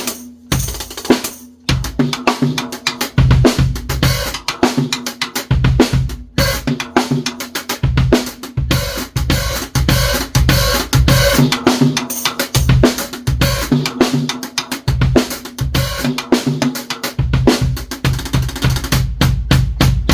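Drum kit played in a fast groove: kick drum, snare, hi-hat and cymbals struck in dense rhythm, with a brief break about six seconds in.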